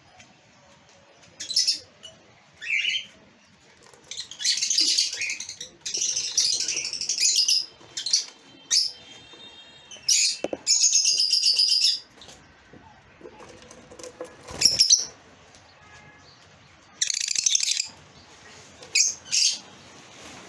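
Lovebirds calling: high-pitched chirps and chatter in bursts of up to about two seconds, with short quieter gaps between them.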